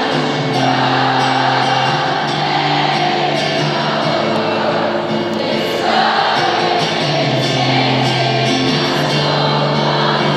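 Live rock ballad played through a concert PA, with a large crowd singing along in unison. The crowd holds long notes over sustained low chords that change every few seconds.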